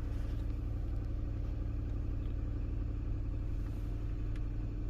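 1998 Mazda MPV engine idling steadily, heard from inside the cabin, still cold about half a minute after a cold start.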